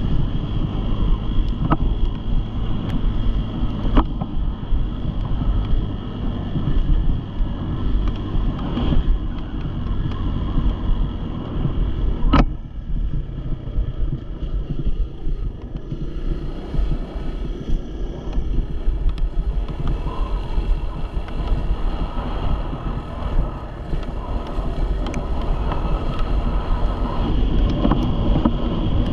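Engine running steadily on the move, with wind buffeting the microphone and a few sharp knocks, the clearest about midway.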